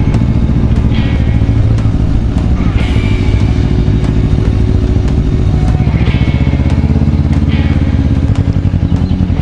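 Suzuki GS500 motorcycle's parallel-twin engine running steadily while riding.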